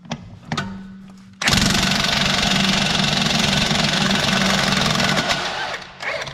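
Milwaukee 1-inch cordless impact wrench on a truck wheel hub: a short spin-up hum, then loud, dense hammering for about four seconds that stops before the end.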